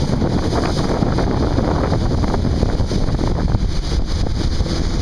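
Heavy wind buffeting the microphone aboard a fast-moving jet boat, a loud steady rumble with crackling gusts, with the boat and rushing water beneath.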